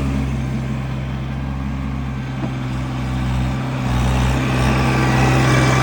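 A van's engine running with a steady low hum, growing a little louder about four and a half seconds in.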